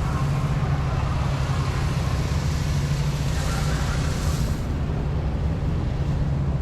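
Steady low rumble and hiss of city street traffic, with a rushing hiss that swells about three and a half seconds in and drops away about a second later.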